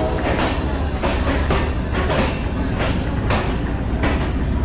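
Steady low rumble of a standing diesel-hauled passenger train at a station platform. Over it runs a regular tapping about twice a second, like footsteps walking along the platform.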